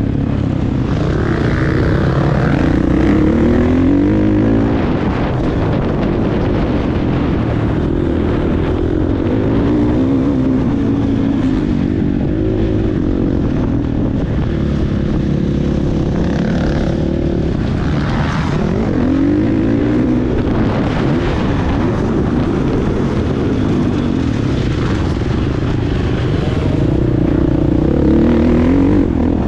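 Motocross bike engine running hard, its pitch climbing and dropping again and again as the throttle opens and closes.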